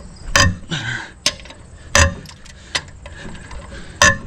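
Ratchet wrench clicking in separate sharp strokes as wheel lug nuts are snugged down one after another, about five clicks with the last the loudest.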